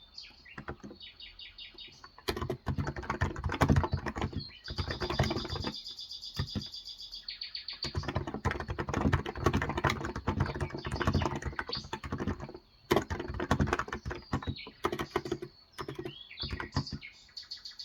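Fast typing on a Cox Endeavour electro-capacitive (non-contact) 35 g tenkeyless keyboard, in runs of rapid keystrokes broken by short pauses. Birds chirp in the background during several of the pauses and near the end.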